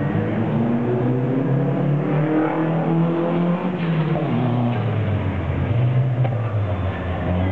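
Toyota MR2 autocross car's engine revving hard under acceleration. It climbs in pitch, drops back about halfway through at a shift or lift, then climbs again.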